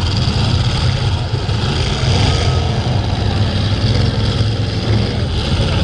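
Engines of full-size pickup trucks and vans running loudly together as they race a figure-8 track.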